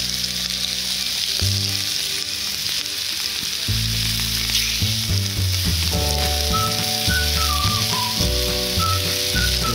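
Pork belly strips frying on a seasoned cast-iron cauldron lid (sotttukkeong), a steady sizzling hiss of fat hitting the hot iron.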